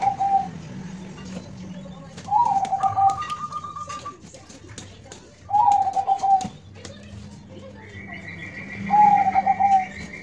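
Zebra dove (perkutut) cooing: four coos about three seconds apart, each a short rising note followed by a quick stuttering run of notes. Another bird gives a higher, even trill briefly after the second coo and again for about two seconds near the end.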